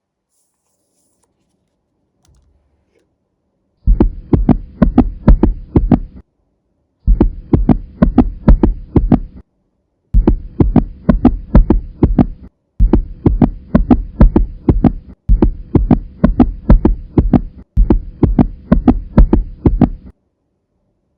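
Loud, fast heartbeat-like pulsing, about three beats a second, played in six bursts of about two seconds each with short gaps between them.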